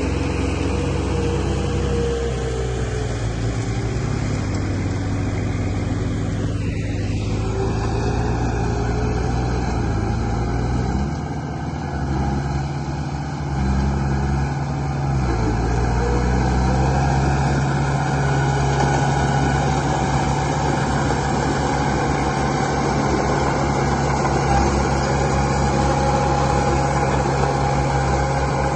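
Engine sound of a radio-controlled construction vehicle running steadily. Its pitch drops about two seconds in and shifts again in the middle, where it briefly dips in loudness.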